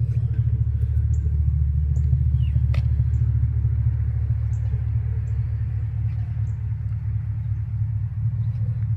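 Chevrolet Silverado SS V8 engine idling: a steady low rumble.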